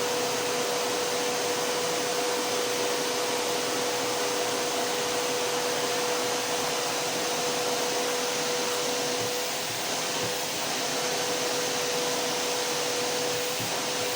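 Vacuum cleaner running steadily: an even rushing noise with a steady motor whine, dipping slightly about ten seconds in.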